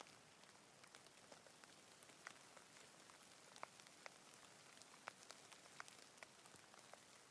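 Faint rain: a soft, even hiss with single drops ticking sharply here and there, a few each second.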